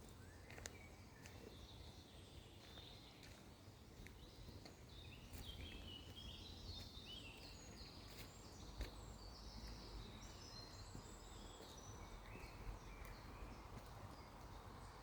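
Faint outdoor ambience: a small bird sings a run of quick, high, stepping notes through the middle, over a low steady rumble with scattered light clicks.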